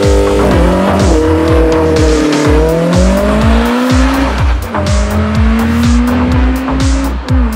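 Car engine accelerating hard, its note climbing in pitch and dropping back twice, about four and seven seconds in, as at gear changes, over background electronic music with a steady beat.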